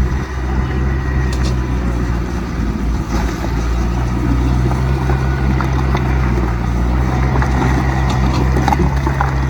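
Heavy diesel earthmoving machinery running steadily at a constant low pitch, with a few light clanks over the engine.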